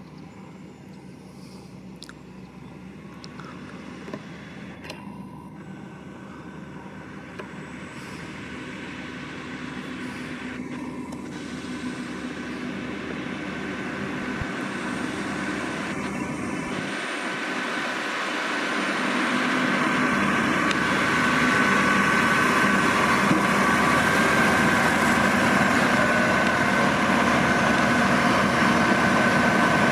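Massey Ferguson 7620 tractor's six-cylinder diesel running under load while working a McHale V660 round baler, growing steadily louder over about twenty seconds as it comes closer, then holding steady with a high whine on top.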